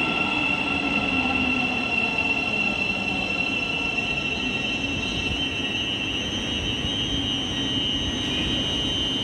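Thameslink Class 700 electric multiple unit arriving at the platform, its running noise carrying a steady high-pitched squeal.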